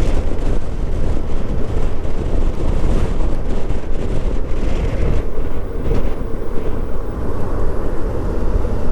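Steady low rumble of wind and engine on a motorcycle rider's microphone while riding a Suzuki V-Strom 650, a 645 cc V-twin.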